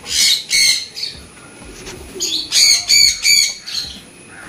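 Birds chirping: two sharp high calls at the start, then a quick run of four more about two and a half seconds in.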